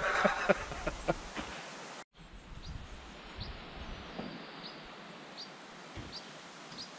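A few knocks and rustling, then, after a sudden cut, quiet woodland ambience with a small bird repeating one short high chirp about every three quarters of a second.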